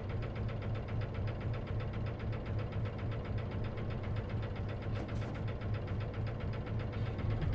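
Diesel engine of an Isuzu KC-LV380N city bus running at a steady idle, heard from inside the cabin: a low hum with a fast, even clatter. A brief hiss about five seconds in.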